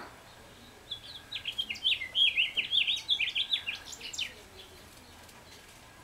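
A small songbird singing one rapid, jumbled run of short high notes, starting about a second in and lasting about three seconds. A brief click sounds right at the start.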